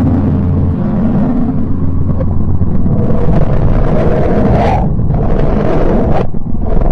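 Deep, continuous rumbling drone presented as the sound of a planet: a space recording turned into audio. It swells in the middle and dips briefly near the end.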